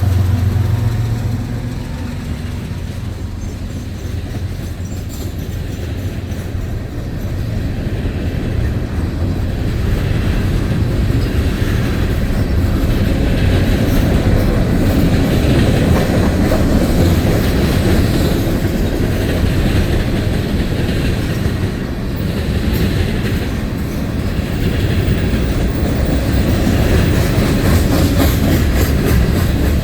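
Freight cars of a CN freight train rolling past, steel wheels clicking and clattering over the rail joints. A low diesel locomotive hum dies away in the first second or two.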